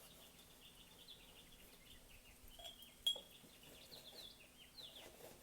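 Faint chirping of small birds: a rapid, continuing series of short, high, falling chirps. A single sharp click about three seconds in stands out as the loudest sound.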